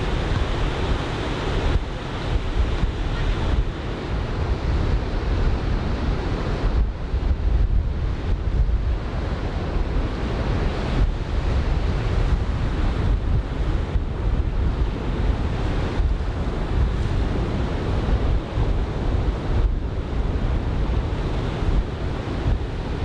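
Ocean surf from a typhoon swell breaking and washing on a sandy beach, a steady rolling rush with wind buffeting the microphone.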